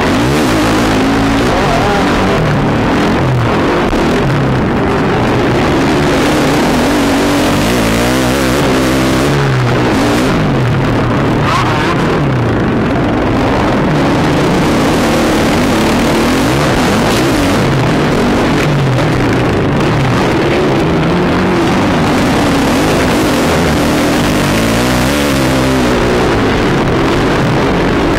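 Motocross bike engine running hard around a dirt track, its pitch climbing through the gears and dropping again as the throttle is opened and shut, over and over.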